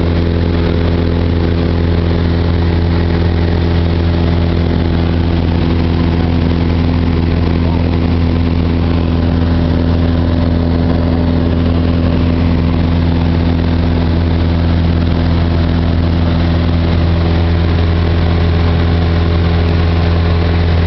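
Cessna 172's piston engine and propeller running steadily in flight, a constant low drone with no change in pitch.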